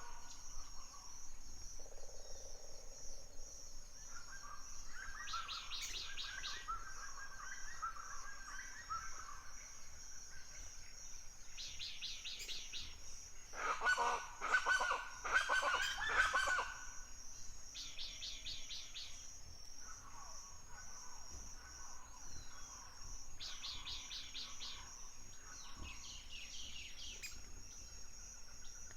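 Forest birds singing. One bird repeats a short high trill about every six seconds over a steady high-pitched buzz. A louder run of harsh, fowl-like calls comes near the middle.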